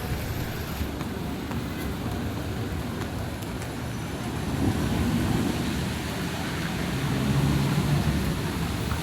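Street traffic: vehicle engines running and passing, swelling twice, over a steady hiss of heavy rain.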